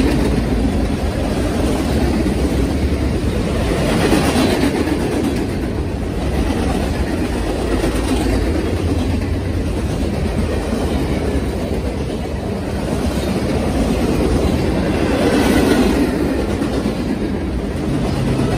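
Freight train cars rolling past at speed: a steady rumble and rattle of boxcars, covered hoppers and tank cars on the rails, swelling and easing every few seconds.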